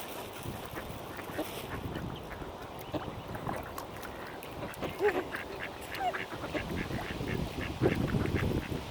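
Mallard ducks quacking in short calls, busier from about halfway through, over a low steady rumble of wind.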